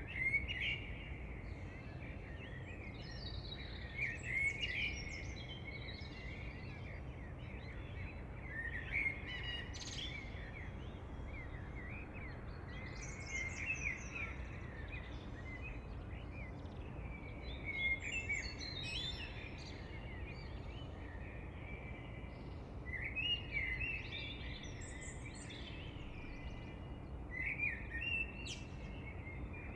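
Several songbirds chirping and singing in short phrases that recur every few seconds, over a steady low background hiss.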